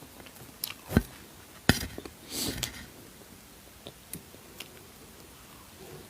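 A person eating: two sharp knocks about a second and nearly two seconds in, as of a dish or utensil being handled, a brief rustle just after, then a few soft chewing clicks.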